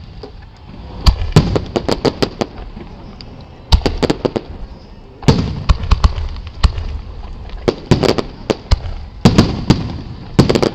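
Aerial firework shells bursting in a display: sharp booms coming in clusters, several in quick succession in each.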